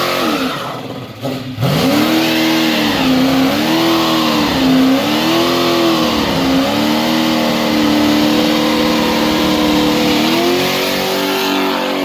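Car engine being revved, its pitch climbing and falling back several times in quick blips, then held at a steady higher speed for a few seconds and raised a little again near the end.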